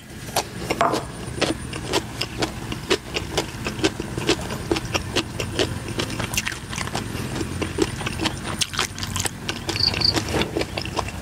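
Close-up chewing and lip-smacking of a person eating, a steady run of wet mouth clicks several times a second, with crickets chirping faintly behind.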